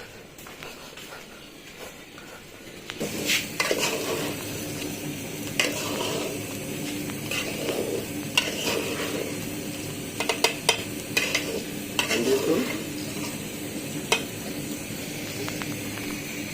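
Food sizzling in a pot while a spoon stirs it, clinking and scraping against the pot, starting about three seconds in.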